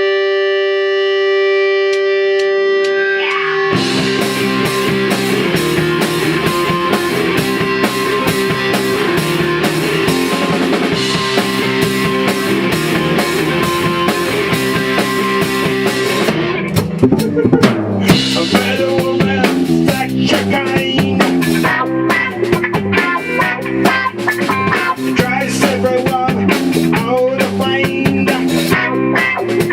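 Rock band playing at rehearsal: a single held guitar note rings at first, then drum kit, guitar and bass come in together about four seconds in, and just past halfway the band switches to a choppier, more rhythmic riff.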